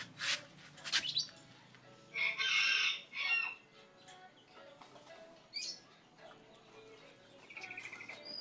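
A rooster crowing once, a call about a second long about two seconds in with a short tail after it, with a few sharp clicks or knocks in the first second.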